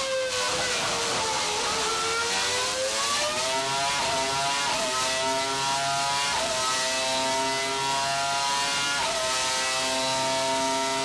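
Renault Formula One V10 engine running on a dyno: the revs fall for about two seconds, climb back up, then hold high with three sharp brief dips.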